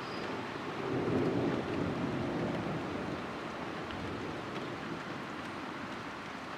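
Distant thunder rumbling, swelling about a second in and easing off over the next few seconds, over a steady hiss of rain.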